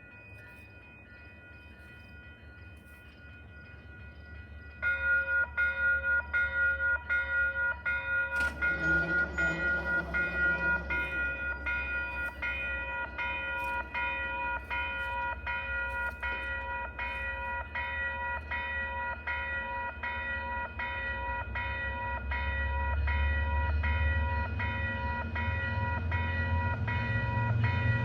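Railroad crossing warning bell starting to ring about five seconds in, one ringing stroke about once a second. Over the last several seconds a low rumble grows louder as the train approaches.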